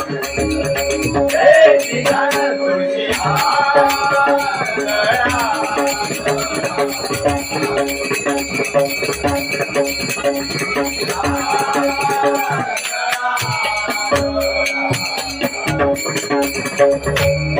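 Traditional bhajan music: steady held notes under a dense, fast jingling rattle of hand cymbals and drumming, with two stretches of wordless vocal melody.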